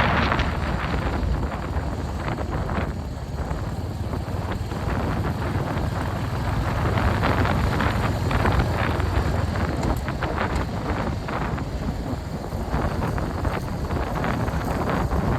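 Royal Enfield Hunter 350's single-cylinder engine running as the motorcycle is ridden, with heavy wind buffeting on the microphone.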